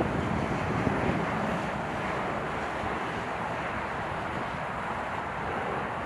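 Jet airliner engines running, heard as a steady even rush of noise.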